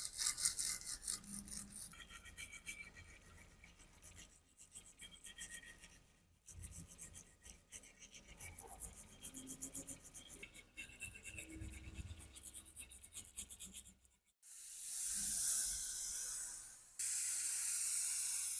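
Rapid back-and-forth rubbing or filing strokes on rusty metal, broken by short pauses, then two long steady spray hisses in the last few seconds.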